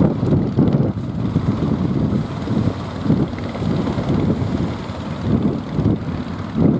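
Strong wind buffeting the microphone: a loud, gusting low rumble that rises and falls irregularly.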